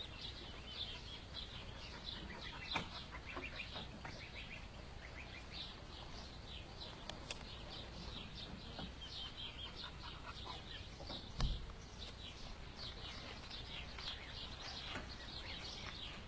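Duckling peeping over and over in short, high calls, several a second, with a brief knock about eleven seconds in.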